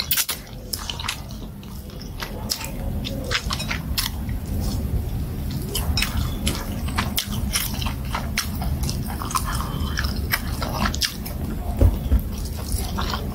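Wet chewing and lip smacks of someone eating plantain fufu and soup by hand, full of quick sharp clicks, with two louder dull thumps near the end.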